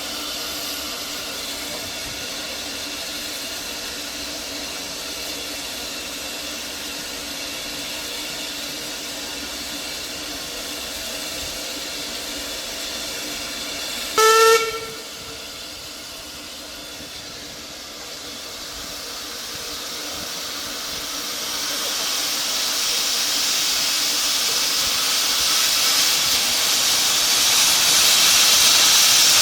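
Steam locomotive hissing steam, with one short whistle blast about halfway through. After the whistle the hiss drops away, then builds again steadily and grows louder toward the end.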